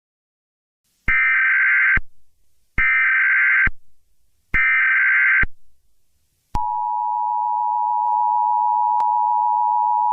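Emergency Alert System tones: three short warbling data bursts of the SAME header, then the steady two-tone EAS attention signal (853 and 960 Hz together), which begins a few seconds later and holds on without a break.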